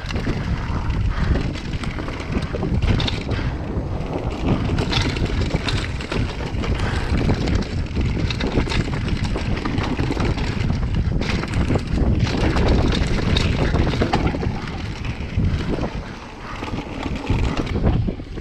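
Wind buffeting a chest-mounted action camera's microphone during a fast downhill mountain bike descent, over tyres on a dirt trail and the bike rattling and clattering over bumps.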